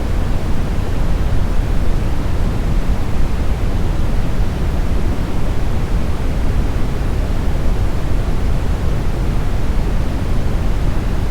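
Steady, smoothed brown noise: an even, deep rushing hiss weighted heavily towards the low end, with no changes or events.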